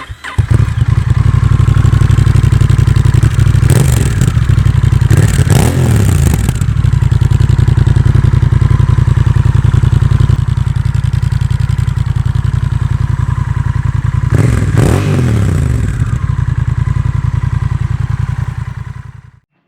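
Honda CMX1100 Rebel's 1084 cc parallel-twin engine running loud through a Miller aftermarket exhaust fitted with the db-Absorber Racing baffle, with a steady throbbing pulse. It is revved up and back down several times, and the sound cuts off near the end.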